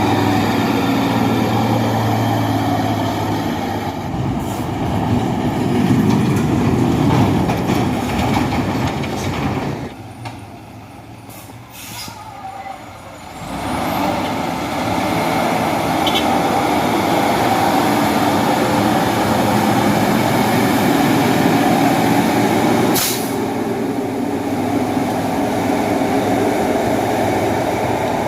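Heavy dump truck's diesel engine labouring under a load of stone as it climbs an incline. It eases off for a few seconds about a third of the way through, then pulls hard again, with a brief hiss about two-thirds of the way through.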